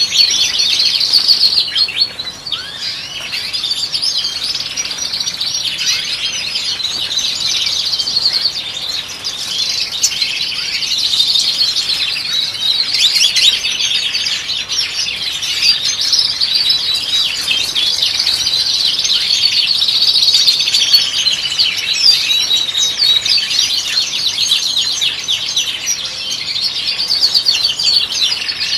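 European goldfinches twittering and singing continuously: a dense stream of quick, overlapping high chirps and trills, with a brief lull about two seconds in.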